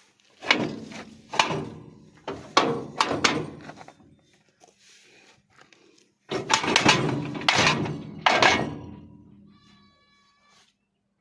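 A series of heavy knocks, each ringing briefly: several in the first few seconds, then a tighter cluster after a pause.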